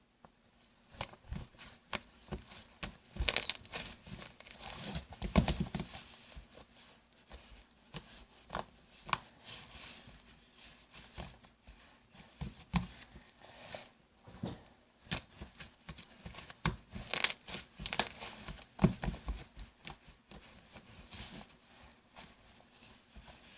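Shampoo-and-salt slime squished and poked by hand: irregular sticky crackles and pops, loudest about 3, 5 and 17 seconds in.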